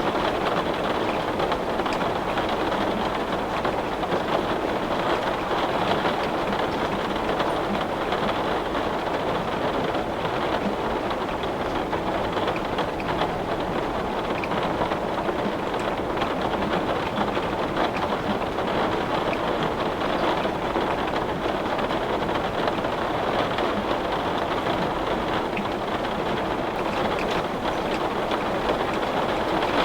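Heavy rain falling on a window, a steady dense patter of drops on the glass.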